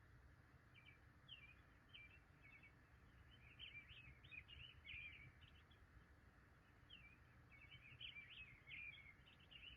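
Faint birdsong: runs of quick, high chirps coming in three bursts, over a steady low rumble.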